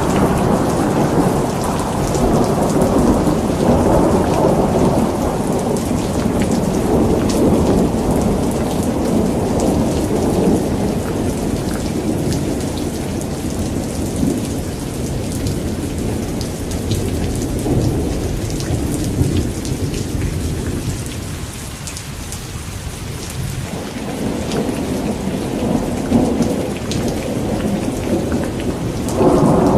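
A thunderstorm: steady rain pattering with thunder rumbling and rolling underneath. The rumble swells and eases, falls away about two-thirds of the way through, then builds back, and a louder roll comes in suddenly near the end.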